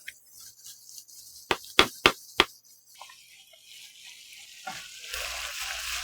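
Four quick sharp taps about a second and a half in. From about five seconds in, pork belly and vegetables start sizzling in a hot frying pan, growing louder.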